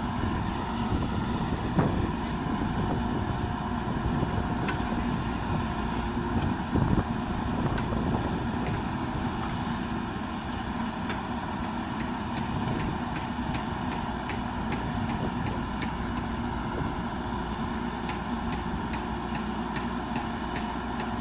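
Diesel engine of a JCB backhoe loader running steadily, with two brief knocks about two and seven seconds in.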